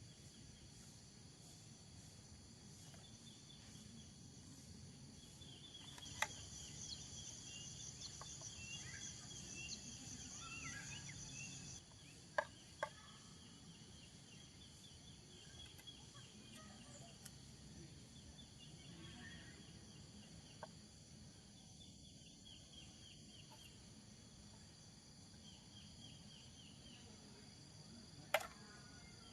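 Insects chirping in the forest: steady high buzzing tones with repeated short trills, louder for a stretch early on, over a low rumble. A few sharp clicks break in, the loudest near the end.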